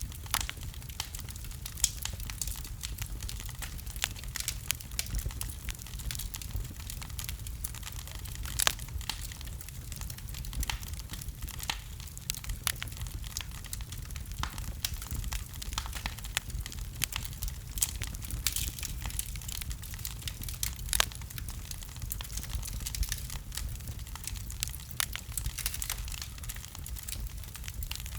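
Fire burning in a fireplace: dense, irregular crackling with a few sharper, louder pops, over a steady low rumble of the flames.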